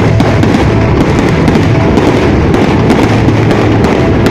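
Fireworks going off in a dense, continuous rapid crackle that starts suddenly right at the beginning, from aerial shells bursting into crackling stars overhead.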